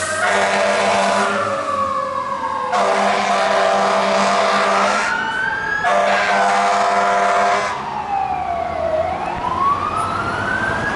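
Fire engine siren on a slow rising and falling wail, with three long horn blasts over it in the first eight seconds.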